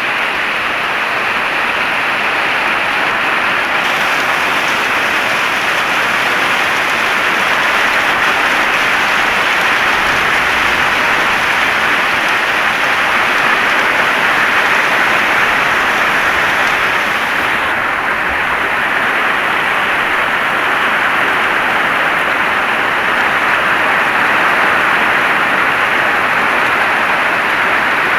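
Heavy rain falling steadily, a dense, even hiss of rain with no pauses.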